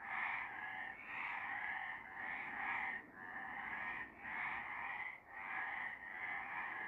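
A chorus of several frogs calling at once, near-continuous, with brief dips about once a second.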